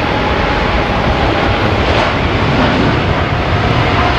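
Boeing 747 jet engines at takeoff thrust: a loud, steady roar with a faint whine running through it.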